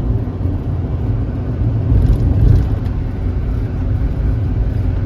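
Inside a tour minibus at motorway speed: a steady, loud low rumble of engine and road noise, swelling slightly a couple of seconds in.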